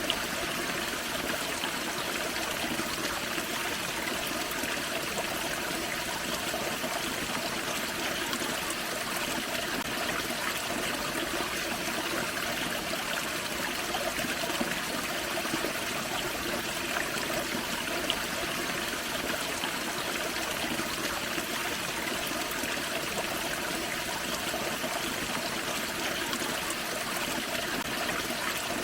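Small forest waterfall and creek: water spilling and running steadily, with a constant splashing rush.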